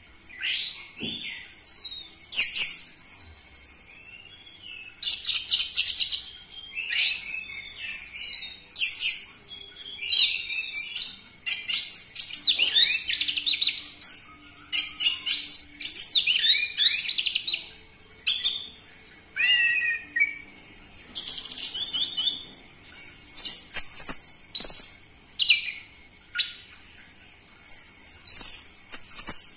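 Orange-headed thrush (anis merah) singing loudly: a run of varied phrases of arching whistles, rapid trills and quick sweeping notes, each a second or two long, separated by short pauses.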